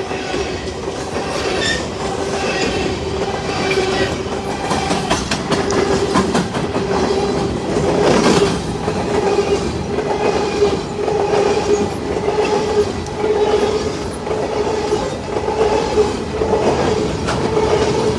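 Empty coal train cars rolling past, their wheels clattering rhythmically over the rail joints, with a steady tone running under the clatter.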